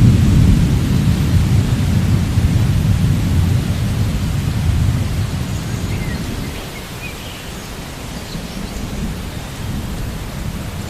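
Steady rain with a long roll of thunder that rumbles low and fades out about halfway through, leaving the rain hiss.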